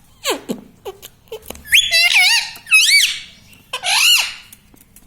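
Ring-necked parakeet calling: a falling whistle, short chirps, then a run of wavering rising-and-falling squeaky calls and one more arched call about four seconds in, with sharp clicks in between.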